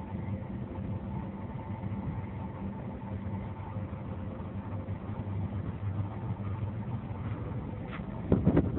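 Boat engine running at a steady hum, with a few loud low rumbles near the end.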